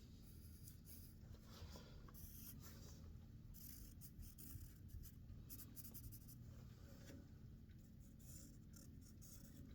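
Near silence with faint, irregular light scratching; the lathe is not running.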